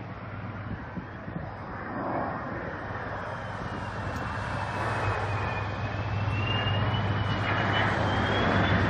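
Korail 7600-series diesel locomotive running with a steady low engine drone that grows louder, with a thin high whine over it.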